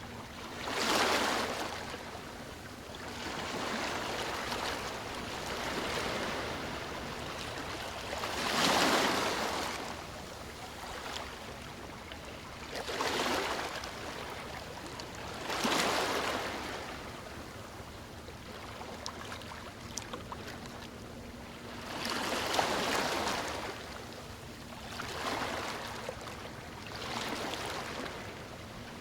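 Sea waves breaking and washing on a shore, a surge of rushing surf every few seconds over a steady hiss of water.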